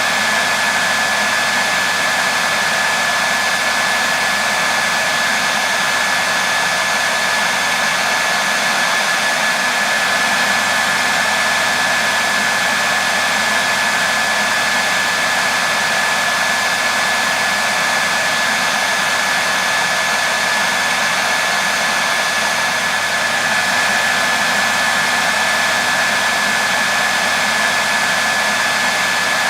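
Hair dryer running continuously at a constant setting: a steady rushing hiss of air with a single high tone held in it, unchanging throughout.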